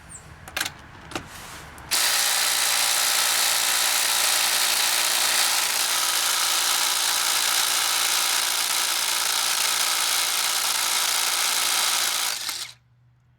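Ridgid Gen5X brushless impact driver hammering steadily on a lug nut torqued to 100 foot-pounds, starting about two seconds in after a few small clicks and stopping abruptly near the end. It takes about ten seconds of impacting to break the nut loose and run it all the way off.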